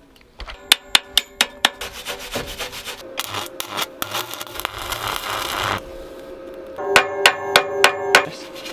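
Hammer strikes on the steel of a hay bale fork, each ringing out, in two quick runs of about five blows, near the start and again about seven seconds in. Between them comes a few seconds of harsh scraping noise.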